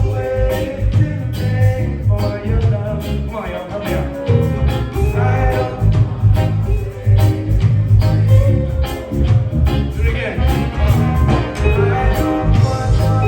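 Live reggae band playing a steady groove, with a heavy bass line and a regular drum beat under held notes from the keys and horns.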